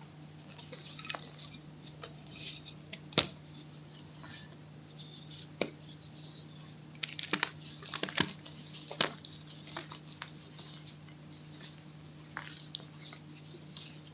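Close-miked chewing and crunching of crunchy chalk: irregular crackles and sharp clicks, densest about halfway through, over a steady low hum.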